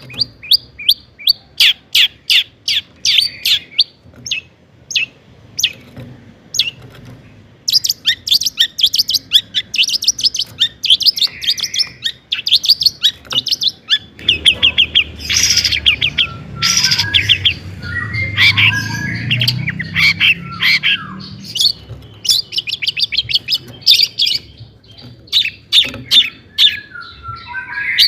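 Long-tailed shrike (cendet) singing: fast trains of sharp, high repeated notes, broken in the middle by more varied chattering phrases.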